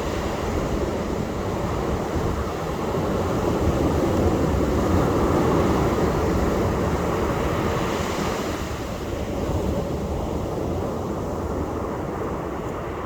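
Ocean surf washing on a beach, a steady rush of water that swells about four to seven seconds in and then eases off.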